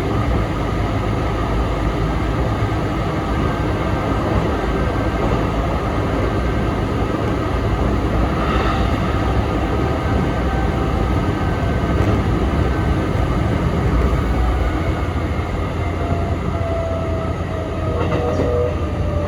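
Sanyo Electric Railway 3050 series train running, heard from inside the car: a steady rumble of wheels and running gear. Near the end a motor whine falls in pitch.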